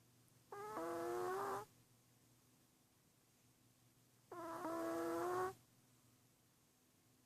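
Chihuahua snoring in its sleep: two pitched snores, each about a second long and nearly four seconds apart.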